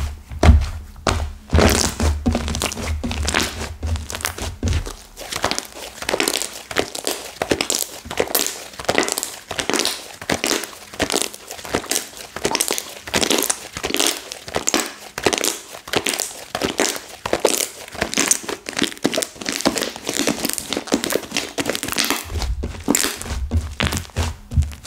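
Slime mixed with clay that has gone hard being squeezed and worked by hand, giving a dense run of crackling and crinkling clicks. Low thumps join in for the first few seconds and again near the end.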